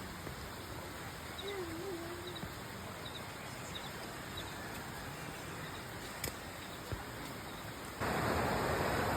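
Steady rush of a stream running over rocks, with faint high bird chirps about once a second; near the end the rushing suddenly gets louder.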